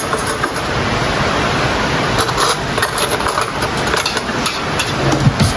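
A steady rushing background with a few light clinks and clicks of a utensil against cookware, scattered from about two seconds in to near the end.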